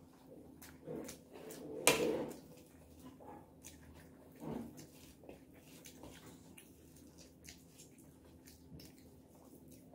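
Close chewing and mouth sounds of someone eating rice and curry by hand: many small wet clicks and smacks. A sharp, much louder click stands out about two seconds in, with a smaller one a little after the middle.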